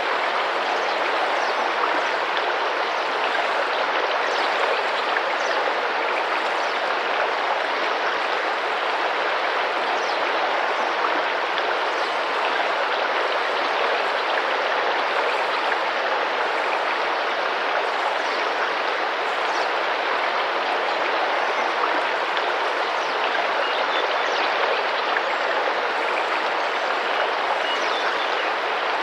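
Tropical rainforest river, water rushing and splashing steadily over the stream bed. Faint high bird chirps come through now and then.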